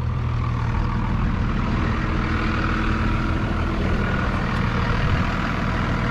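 Truck engine running steadily while a stuck truck is winched out of deep mud.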